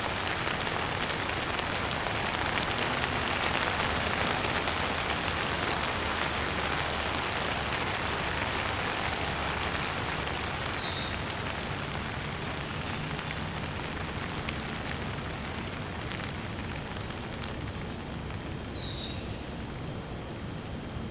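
Steady rain falling, a dense even hiss that eases off a little in the second half. A bird gives a short chirp about halfway through and again near the end.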